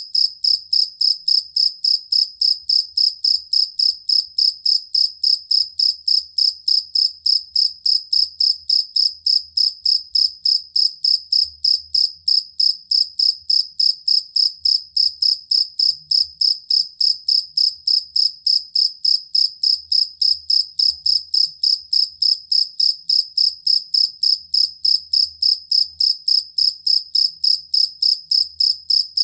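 Jangkrik kalung (two-spotted field cricket) calling: a steady, even train of high chirps, about three a second, that never changes pace.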